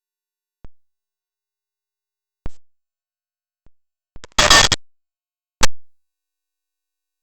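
Sharp electronic clicks and pops breaking a dead-silent audio track, with a burst of crackling noise lasting about half a second just past the middle: a glitch in the recording's audio.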